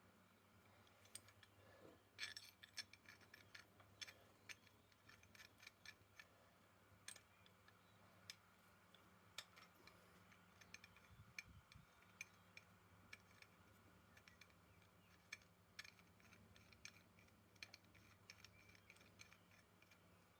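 Faint, irregular light clicks and taps over near silence.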